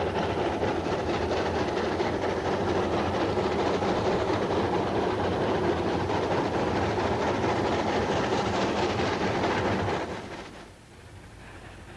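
Steam train running by, a steady loud rush of train noise that drops away suddenly about ten seconds in, then starts to build again near the end.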